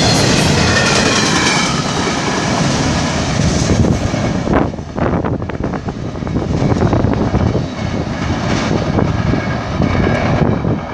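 Double-stack container train's well cars rolling past, steel wheels on rail giving a loud steady rumble with faint squealing tones in the first couple of seconds. About four and a half seconds in, the end of the train goes by and the rail noise drops to a quieter, uneven rumble as it recedes.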